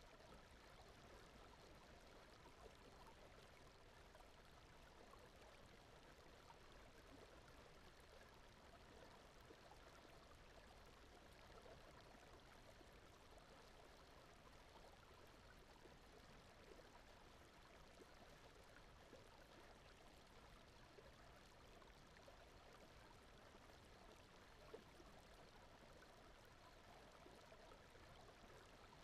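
Faint, steady water ambience like a gently running stream, an even rush with a fine trickling texture, with one faint click about 25 seconds in.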